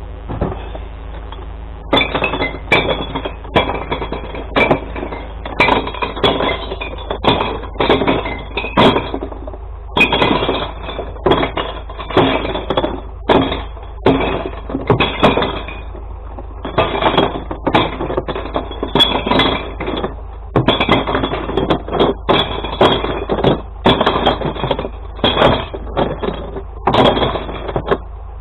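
Glass bottles and jars crashing and clinking as they are tipped into a glass recycling truck's compartment: many sharp impacts in quick, irregular succession, starting about two seconds in. The truck's engine runs steadily underneath.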